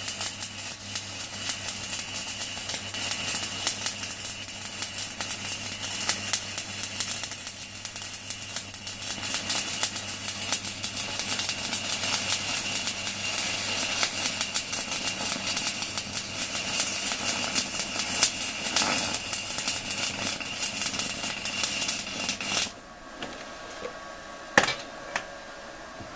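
Stick welding arc from a 4 mm UONI electrode on a small welding inverter run hard at about 160 A: a loud, dense crackling sizzle that cuts off suddenly about 23 seconds in as the arc breaks. The machine's steady faint fan hum carries on after, with a single sharp knock a couple of seconds later.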